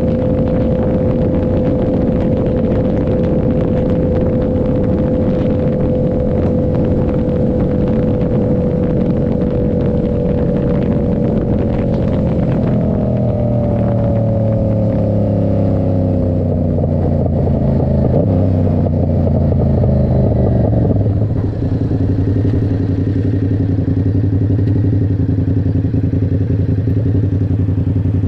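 Yamaha R7's parallel-twin engine through an aftermarket SC Project exhaust, running at steady revs, then the revs fall away over several seconds as the bike slows. From about 21 s it runs low and steady.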